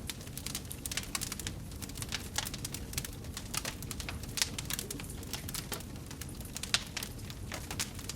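Wood fire burning in a fireplace: a steady low rumble of the flames with frequent irregular sharp crackles and pops, a few louder ones.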